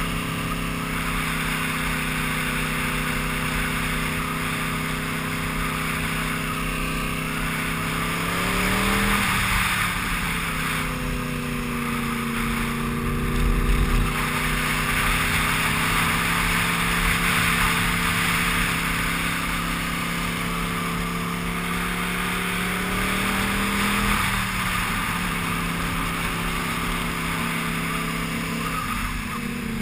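Sport motorcycle engine running steadily under way, its pitch climbing and then changing about nine seconds in and again near 24 seconds. A steady rush of wind over the rider-mounted camera runs under the engine.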